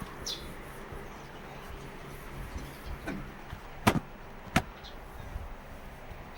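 Tractor diesel engine running low and steady, with two sharp knocks a little over half a second apart just past the middle.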